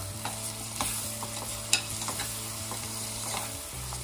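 Slotted steel ladle stirring onions, garlic, peanuts and betel leaves in an aluminium pressure cooker, scraping and tapping against the pot with a few sharp clicks, the loudest a little under two seconds in. Under it, a soft steady sizzle of the mixture frying in oil on a low flame.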